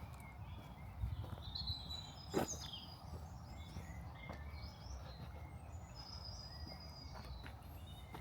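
Small birds calling around a lake, with short high chirps and whistles scattered throughout, over a low outdoor rumble. A single sharp click about two and a half seconds in is the loudest moment.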